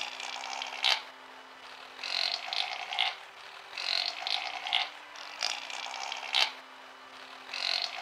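Chamois grazing: repeated rasping tears and crunches of grass being bitten off, one every second and a half or so.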